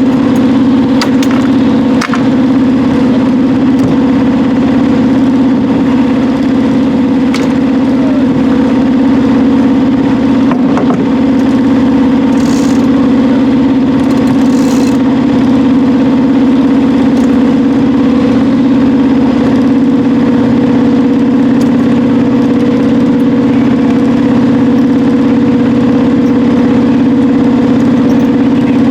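A sailboat's auxiliary engine running steadily at a constant speed, with a few light knocks and two short hisses over it.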